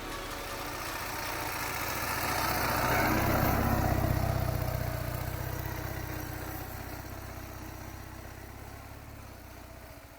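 Ural motorcycle's flat-twin engine running as the bike comes closer and then moves away: loudest about three to four seconds in, then slowly fading.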